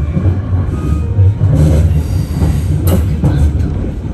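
A passenger train running on the rails, heard from inside the carriage: a steady, loud low rumble with a few sharp clacks about three seconds in.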